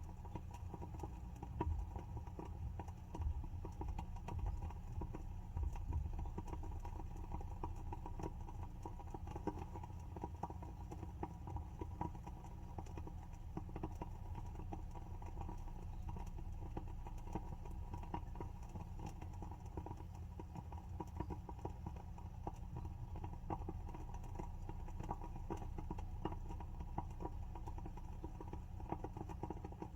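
Wooden wick of a WoodWick candle burning, with a continual run of small, irregular crackles and pops over a low steady hum.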